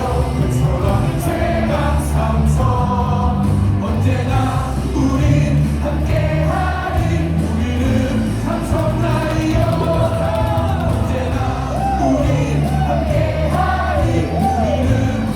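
Cheering music over the ballpark loudspeakers with a large crowd of baseball fans singing along together.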